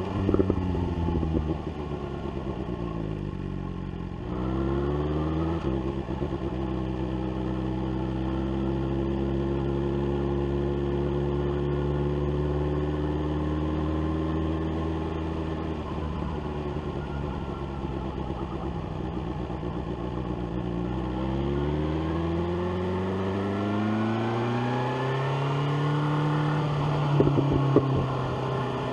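Engine of a BMW S1000R, an inline-four with an SC-Project exhaust, heard from the rider's seat. The engine note falls as the throttle is rolled off, then picks up after about four seconds and holds a steady, slowly rising note while cruising. Near the end it accelerates hard, the pitch rising through a gear change, with a few sharp cracks.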